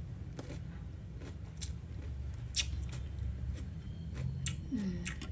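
Crisp bites and chewing of raw cucumber, with a handful of sharp crunches spaced irregularly through the seconds.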